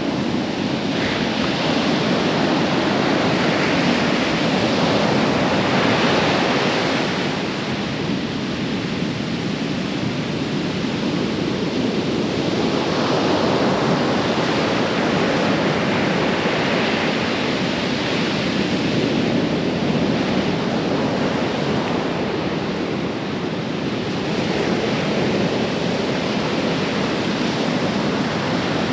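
Rough, choppy ocean surf breaking on the beach, a steady rush that swells and eases every several seconds as waves come in, with wind buffeting the microphone.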